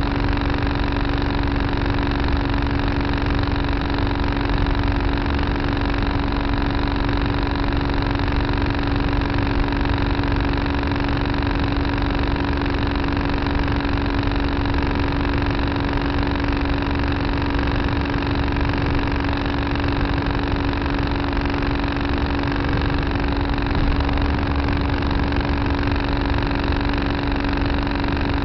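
Tractor engine running at a steady speed, an even drone with a strong constant hum that holds without change.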